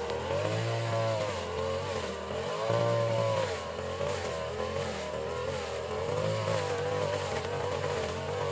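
Small petrol engine of a grass-cutting machine running, its pitch rising and falling twice in the first few seconds as it is revved, then running steadier.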